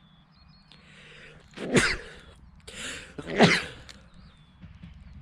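A person coughing twice close to the microphone, each cough after a breath in, about a second and a half apart. Birds chirp faintly in the background.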